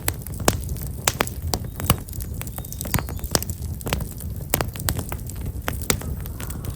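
Black locust firewood burning in an open fire, crackling and popping at irregular intervals over a steady low rumble.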